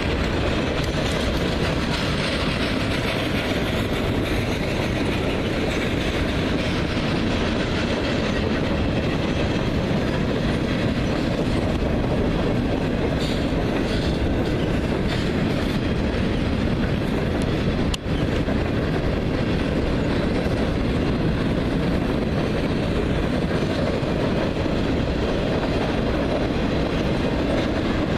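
Freight train passing, its cars rolling steadily along the rails.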